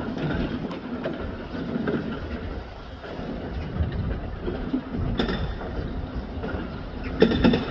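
Demolition machinery rumbling with scattered clanks and knocks. Music with a regular beat comes in near the end.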